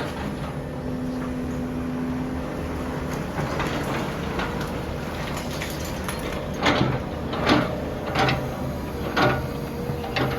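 Demolition machinery running steadily, with a series of about five loud knocks in the second half as material is struck or broken.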